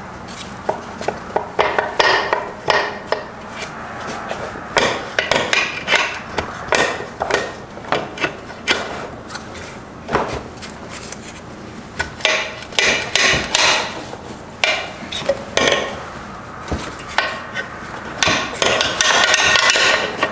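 Hand tools knocking, tapping and clinking on the metal parts of a Subaru six-speed transmission as it is taken apart, in irregular strikes with some ringing. The clatter gets denser near the end.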